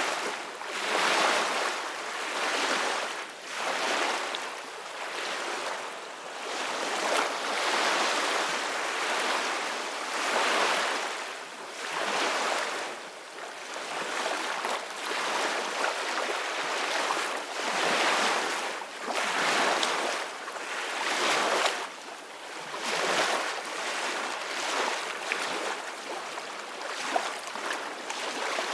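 Ocean waves breaking and washing in, a steady surf that swells and falls back every couple of seconds.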